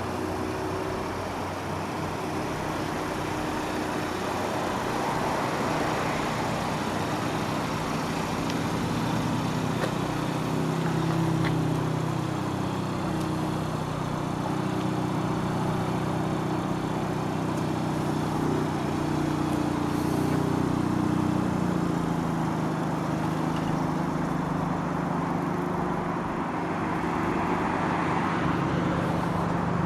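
Car driving on the road: steady engine and tyre noise, the engine note stepping up and down in pitch several times.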